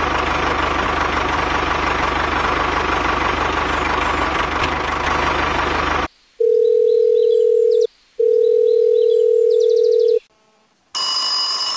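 A steady engine-like running sound that cuts off suddenly about six seconds in. Then a telephone-style tone sounds twice in long, steady beeps. Near the end comes a bright ringing chime.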